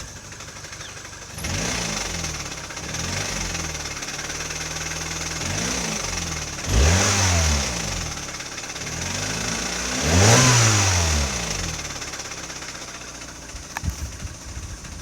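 MINI Cooper R56 1.6-litre four-cylinder petrol engine running and being revved repeatedly, with about six blips that rise and fall in pitch; the two strongest come about 7 and 10 seconds in. The engine has the intermittent noise the owner reports, which normally settles after a few minutes of running.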